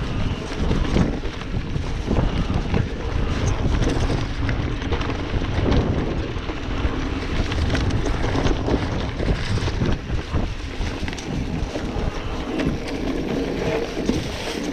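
Wind buffeting the microphone of a moving e-bike, a steady low rumbling rush with scattered short knocks and rattles.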